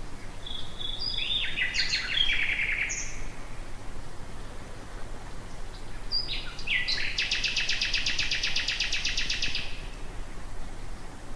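A nightingale singing two phrases. The first, about a second in, is a few clear whistled notes followed by a quick run of repeated notes. The second, past the middle, starts with single notes and goes into a long, fast trill of evenly repeated notes, the loudest part. A low steady hum runs underneath.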